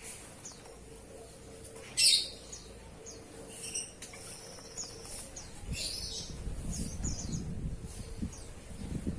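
Oriental magpie-robin giving short, high chirps during its bath. A brief noisy burst comes about two seconds in, and a low rumbling noise runs through the second half.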